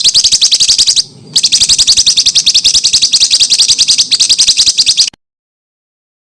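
A songbird delivering a rapid trill of sharp, evenly repeated notes, about a dozen a second. This is the close-fire 'tembakan rapat' song used as tutor material for contest birds. It breaks briefly about a second in and cuts off abruptly about five seconds in.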